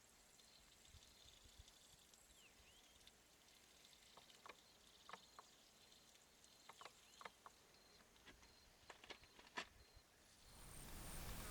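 Faint outdoor ambience: a thin, steady high tone, with short clicks and chirps scattered through it. A broad rush of noise rises near the end.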